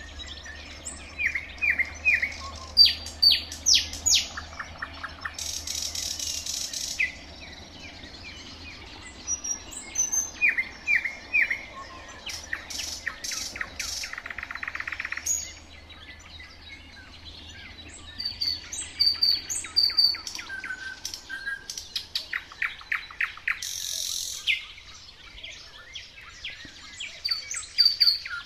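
Nightingale singing in phrases of rapid repeated clicks, whistles and buzzy rattles, with short pauses between phrases.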